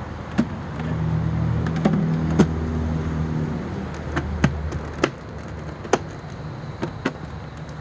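Hard plastic parts of Hoover bagless upright vacuums clicking and knocking as they are fitted back together, about nine sharp clicks spread through, over a steady low hum that is stronger in the first half.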